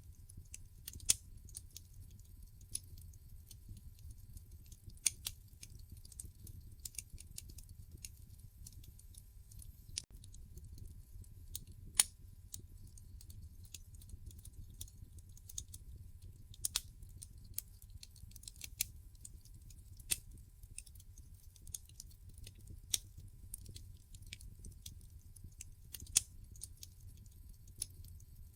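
Log fire in a fireplace crackling: irregular snaps and pops, a few much sharper than the rest, over a low steady rumble.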